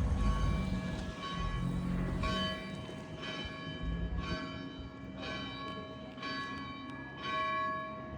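Church bells ringing, struck about once a second, each stroke ringing on into the next. A low rumble sits under the first couple of seconds.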